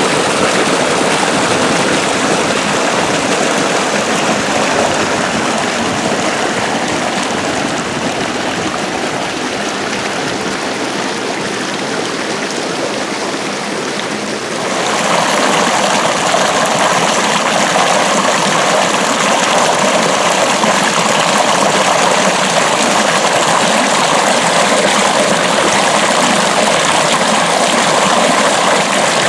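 Water rushing steadily along an irrigation ditch (acequia). About halfway through, the rush becomes louder and brighter.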